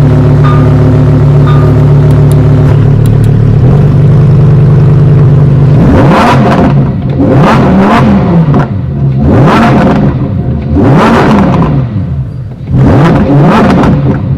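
Lamborghini Reventón's V12 engine idling steadily, then revved repeatedly in short blips that rise and fall in pitch, about one every second and a half, from about six seconds in. Very loud.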